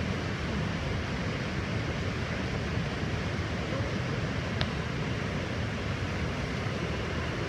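Waterfall: falling water rushing steadily, with one short click a little past the middle.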